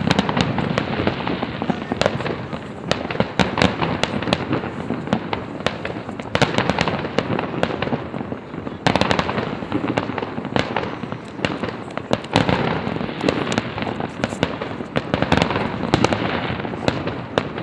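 Fireworks display: a continuous barrage of shell bursts, sharp bangs over crackling, with louder bangs about 6, 9 and 12 seconds in.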